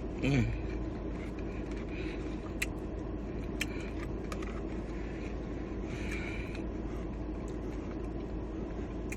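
Steady low rumble and hiss, with a brief hummed vocal sound just after the start and a few faint sharp clicks a few seconds in.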